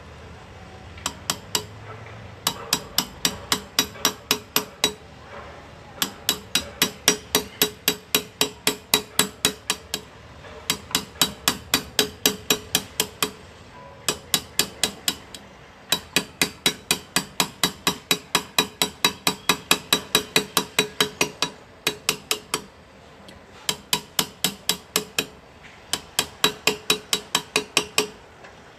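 Hand engraving: a small chasing hammer tapping a graver into metal, light evenly paced strikes about four or five a second, in runs of a few seconds broken by short pauses.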